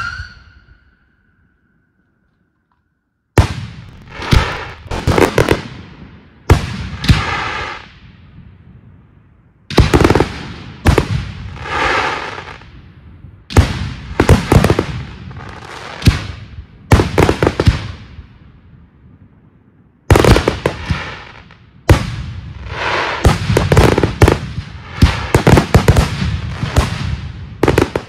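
About three seconds of silence, then a fireworks display: shells bursting in quick volleys, each bang trailing into crackling. Short lulls separate the volleys, and the bursts grow denser near the end.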